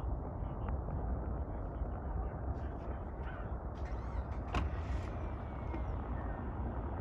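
Wind buffeting the microphone outdoors: a steady low rumble with a few faint clicks.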